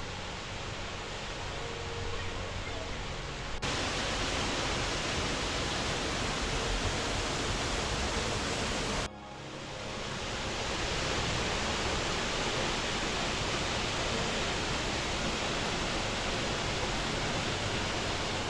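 Waterfall on a mountain beck rushing, a steady hiss of falling water that steps abruptly louder about three and a half seconds in and again about nine seconds in.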